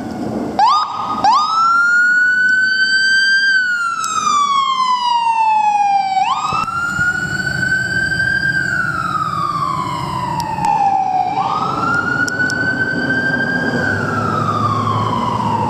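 Fire apparatus siren switched on with two quick rising chirps, then sounding a wail: a quick rise in pitch followed by a long slow fall, repeating about every five seconds, over the rumble of the vehicle moving off.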